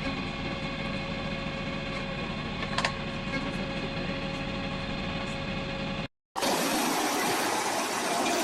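A log splitter's engine running steadily, with one short sharp knock about three seconds in. After a brief dropout to silence about six seconds in, a louder, noisier machine sound takes over.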